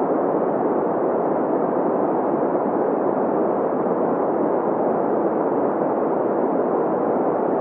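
Green noise: a steady, even synthetic hiss, strongest in the middle range, with little deep bass or high treble.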